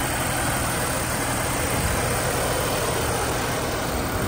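2006 Audi A4's turbocharged four-cylinder engine idling steadily, heard with the hood open.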